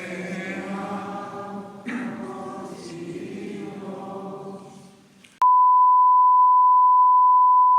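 Voices singing a slow religious hymn, fading away; about five seconds in, a loud, steady, high-pitched electronic beep tone starts abruptly and holds unchanged.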